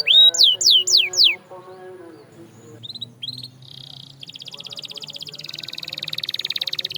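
Domestic canary singing: a few loud whistled notes sweeping downward, about three a second, then after a short lull a brief buzzy note and a fast, even trill that runs on.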